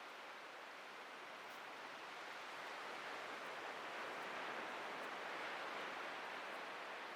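Ocean waves breaking and washing in: a steady rush of surf that swells gently about halfway through.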